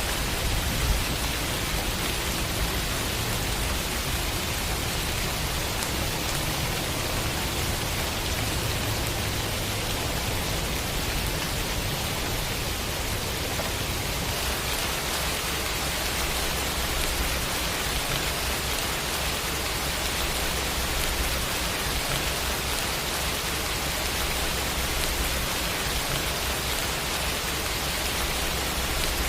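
Steady rain falling: an even, dense hiss with a low rumble underneath.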